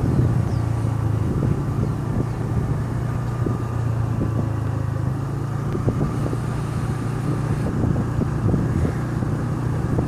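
A motor engine running steadily with a constant low hum, under wind buffeting on the microphone.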